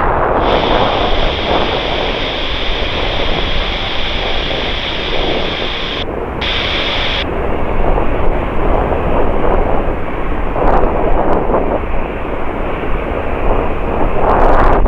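Jet airliner running on the runway: a loud, steady rumble with wind buffeting the microphone, and a high steady whine over it for the first seven seconds.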